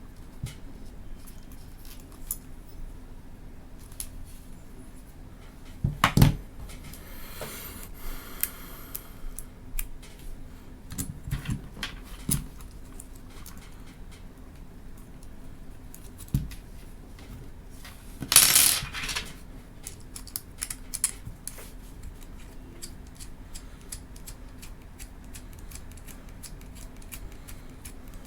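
Small camera mount parts being handled and fitted together: scattered light clicks and clinks of metal and plastic, a louder knock about six seconds in and a short scrape about two-thirds of the way through.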